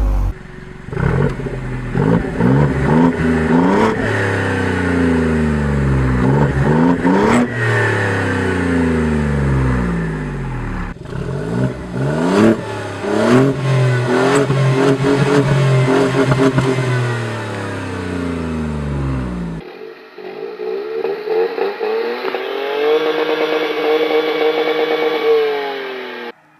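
Three-cylinder car engine pulling hard through the gears, its pitch climbing and dropping back again and again, with sharp cracks now and then. About twenty seconds in it gives way to a thinner engine sound that revs up, holds a steady high pitch for a few seconds, then falls away.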